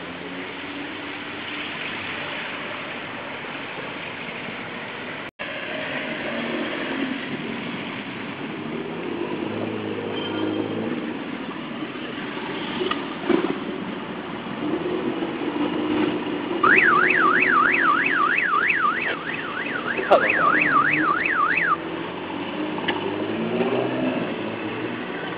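Engines of old cars with loud aftermarket mufflers running and being blipped. Past the middle, an electronic siren warbles up and down about three times a second for some five seconds.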